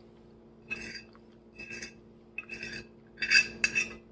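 A metal utensil scraping against a dish in a handful of short rasping strokes, the last and loudest nearly a second long near the end.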